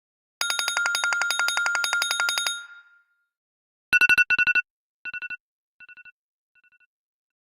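iPhone ringtone: a rapid electronic trill on one high tone for about two and a half seconds, fading out. About four seconds in comes a short burst of beeps, repeated three more times, each fainter than the last, like an echo.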